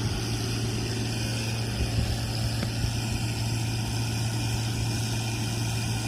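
Heavy-equipment engine running steadily with a constant low hum, neither revving nor pausing.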